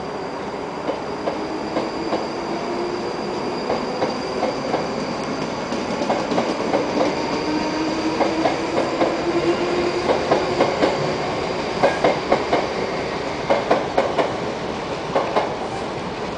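Train running, heard from on board as it pulls out: a steady rumble with a motor whine slowly rising in pitch, and wheels clicking over rail joints and points, the clicks coming thicker and louder in the second half.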